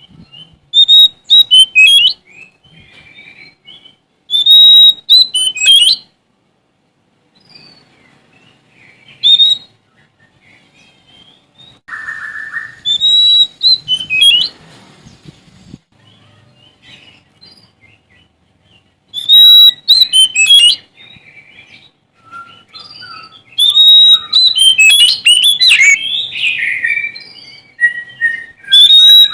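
Oriental magpie-robin (Sumatran kacer) singing vigorously, a bird in full song as if seeking a rival. It sings in loud bursts of high whistled and chirping phrases with short pauses between, the bursts running longest near the end.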